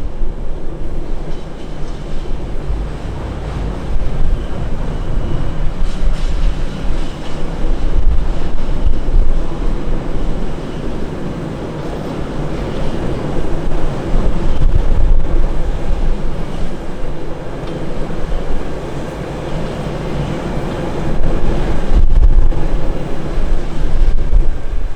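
Wind buffeting the microphone: a loud, gusting low rumble that rises and falls in waves.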